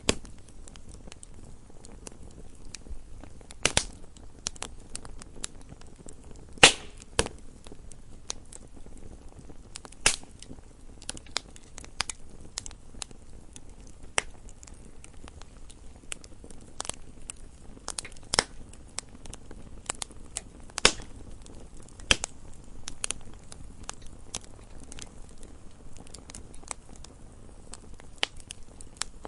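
Wood fire crackling in a fireplace: irregular sharp pops and snaps over a faint steady hiss, with the loudest pop about seven seconds in.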